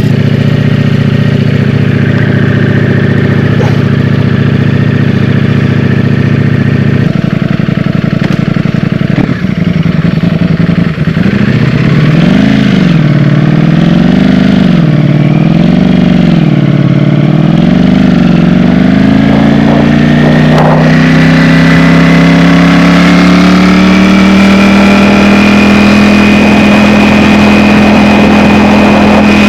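Ducati Streetfighter V4S's 1103 cc V4 engine heard on the move: a steady engine note at first, then the revs rise and fall several times, and in the last third the pitch climbs slowly and evenly as the bike pulls.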